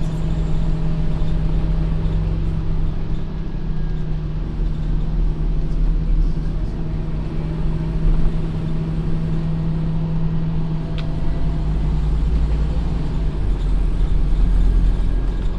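Scania OmniCity N230UD double-decker bus's five-cylinder diesel engine running at steady revs, a constant low drone and rumble.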